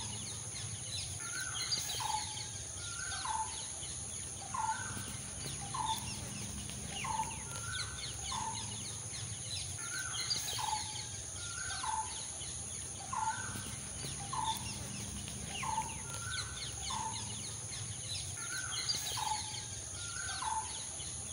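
Birds calling. One bird repeats a short two-note call about once a second, over the faint twittering of smaller birds and a steady high whine.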